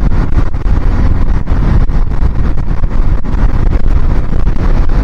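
Wind rushing and buffeting over the microphone of a moving motorcycle, with the Suzuki Inazuma GW250's parallel-twin engine running underneath.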